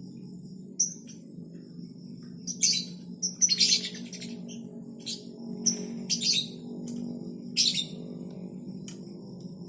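Birds chirping: short, high, sharp chirps come in scattered clusters over a steady low hum.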